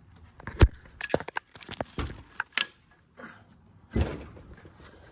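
Irregular clicks and knocks of parts and tools being handled during an engine teardown, with a sharp knock about half a second in, a quick run of clicks after it, and a duller thump near the end.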